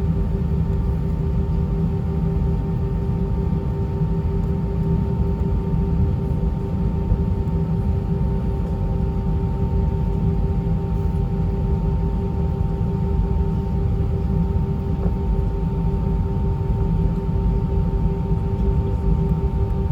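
Steady cabin drone of an Airbus A320-232 taxiing, heard from a window seat: the low rumble of its IAE V2500 engines at taxi thrust, with a steady hum of several tones over it.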